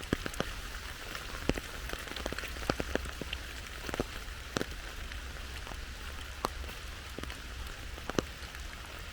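Steady rain hissing, with individual raindrops ticking sharply and irregularly close by.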